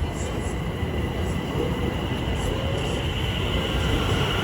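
A train running along the track, a steady rumble of wheels on rail with a faint high whine, growing slightly louder toward the end.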